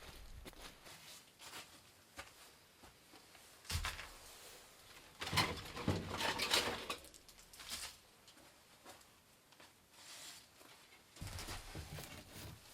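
Irregular knocks and rustling scrapes, as of things being handled and moved about, with the loudest burst of rustling about five to seven seconds in.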